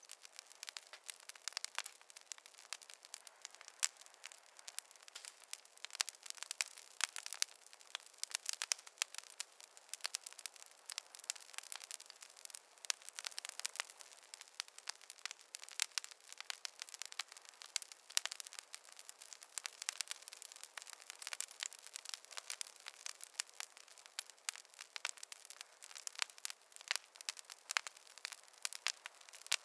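Wood fire crackling, with many sharp, irregular pops and snaps from the burning logs.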